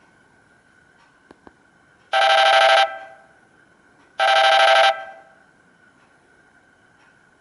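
Samsung GT-E1182 mobile phone playing one of its built-in ringtones through its small speaker: two identical steady tones, each under a second long and about two seconds apart. Two faint clicks come shortly before the first tone.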